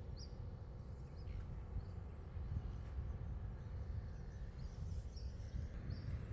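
Outdoor ambience of low wind rumble on the microphone, with short high bird chirps every second or so.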